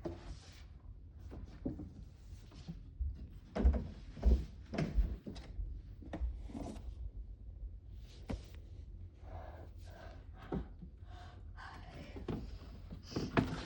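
Scattered thuds and knocks over a low, gusting wind rumble on the microphone.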